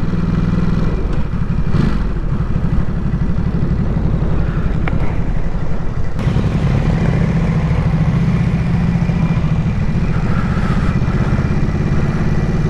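Sport motorcycle engine running at low speed, heard from the rider's own bike, its note dipping briefly about a second in and running steady again from about six seconds in.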